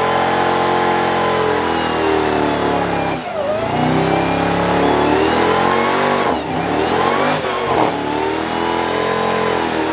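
A car engine revving hard, held at high revs with the throttle backing off and climbing again about three seconds in and once more between six and eight seconds.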